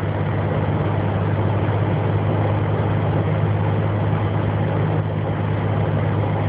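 Steady drone of a moving car's engine and tyres on the road, heard from inside the cabin.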